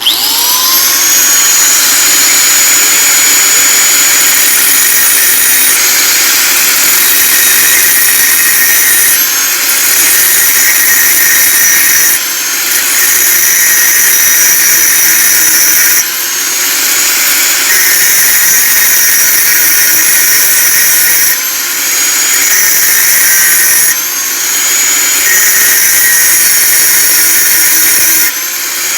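Lotus 650W small angle grinder run free with no disc fitted: it spins up with a rising whine, then holds a loud, steady high-pitched whine. It drops off briefly about seven times and comes straight back up.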